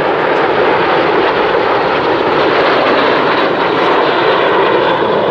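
Turbofan engines of Aero L-39 Albatros jets flying past, a loud, steady jet noise.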